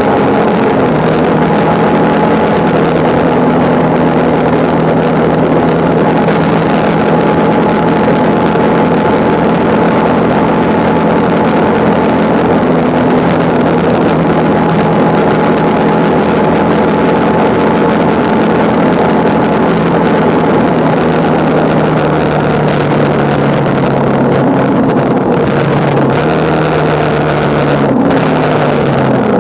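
A motorcycle engine runs steadily at cruising speed over a constant rush of wind. In the last several seconds the engine note drops and changes pitch a few times as the speed changes.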